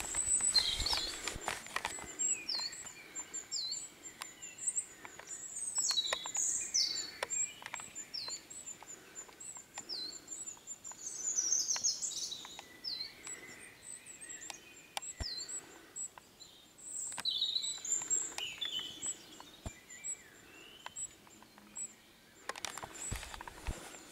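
Several wild birds calling and singing: a steady series of very high, thin chirps repeated about every second, with short falling whistled notes and other calls mixed in.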